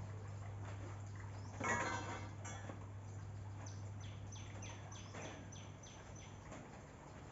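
A bird calling outdoors: one loud, harsh call just before two seconds in, then a run of about eight quick chirps, each sliding down in pitch. A steady low hum sits underneath and fades out about six seconds in.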